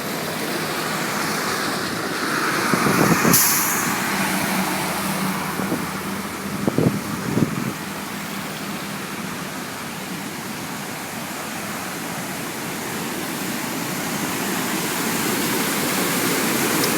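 Road traffic passing, one vehicle swelling past about three seconds in, over the steady rush of the Lester River in flood. A few short dull thumps come near the middle.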